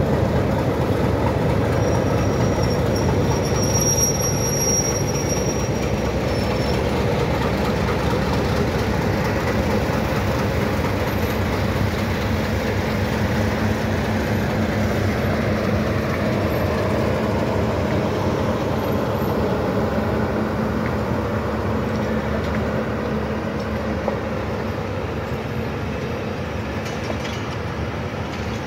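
A diesel-electric locomotive pulls a passenger train away from the station and passes close by, its engine running under power. The coaches then roll past with a steady heavy rumble from the wheels and a brief high squeal a few seconds in. The sound eases slightly near the end as the train draws away.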